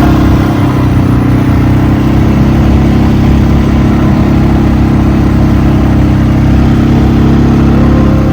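ATV engine running at a steady speed during a ride, an even drone with no change in pitch.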